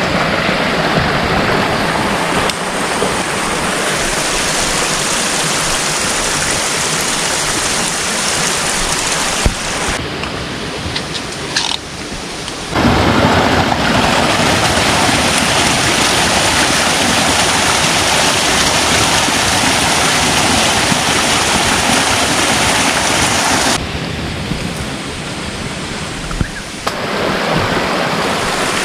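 Steady rush of flowing water, broken by a few abrupt changes in level where the footage is cut.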